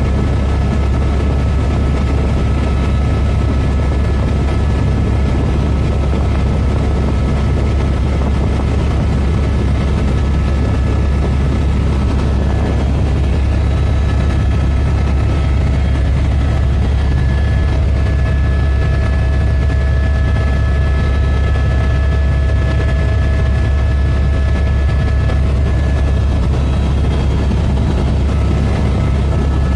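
Helicopter in flight: a loud, steady low drone of the rotor with a few faint steady whining tones above it.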